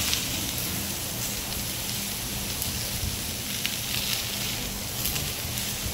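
Chopped hash brown potatoes and green peppers frying in oil on a hot Blackstone 22-inch griddle: a steady sizzling hiss with a few sharp crackles.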